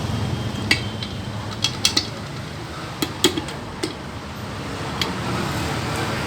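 Metal clinking and tapping, about nine sharp clinks bunched in the first four seconds with one more near five seconds, as tools and small motorcycle engine parts are handled, over a steady low background hum.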